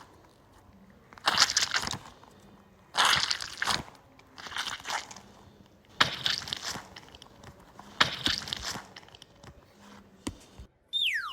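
Crunchy slime ball crunching and crackling under the hands, in about five separate bouts of under a second each.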